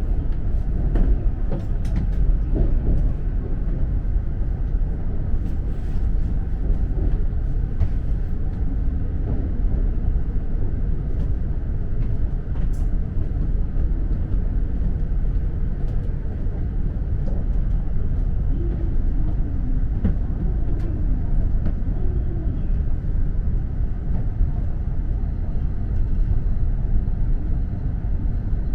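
Steady low rumble inside the lower deck of an E4 series Max double-decker Shinkansen car, with a few light clicks.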